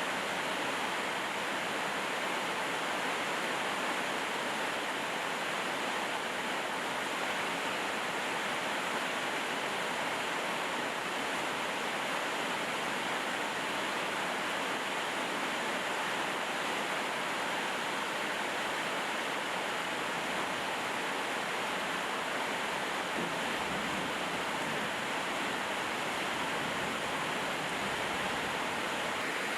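Steady rainfall, an even hiss with no breaks or single drops standing out.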